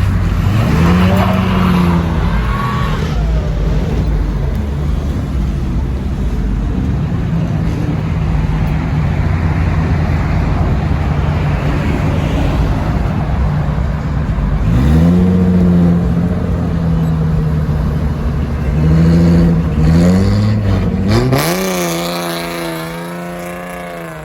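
Car engine running and revving: several quick rev-ups between steadier running. The last climbs higher and holds before fading away.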